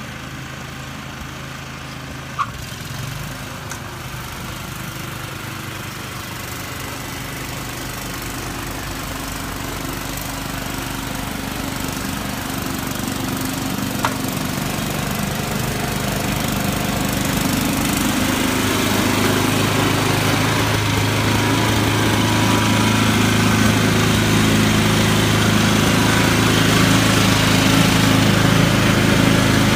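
An engine running steadily and growing gradually louder, with two short sharp clicks, one a couple of seconds in and one about halfway.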